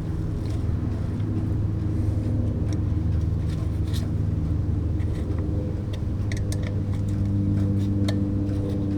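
Steady low mechanical hum with scattered light clicks and taps as a grease seal is fitted into a brake rotor hub.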